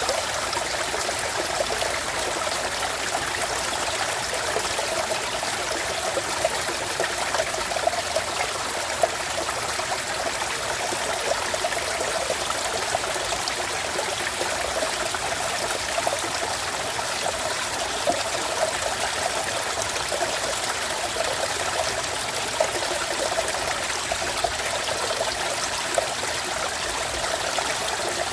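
Mountain valley stream flowing: a steady rush of water with frequent small splashes.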